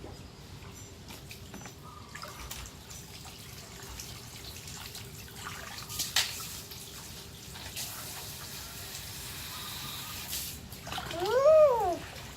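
Water running and trickling as a car is washed, with a denser stretch of spray from about eight to eleven seconds in and a sharp knock around six seconds. Near the end a short rising-then-falling voice is the loudest sound.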